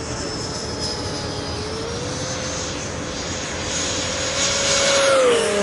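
A formation of aircraft (A-6, P-51, Typhoon and Mirage) flying past: steady engine whines under a rushing noise that grows louder, then the pitch drops sharply near the end as they pass by.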